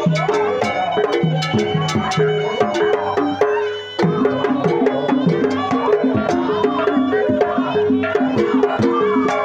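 Jaranan gamelan music: a repeating melody of struck metal keyed instruments with sharp drum strokes. About three and a half seconds in it thins out for a moment, then comes back in at full level.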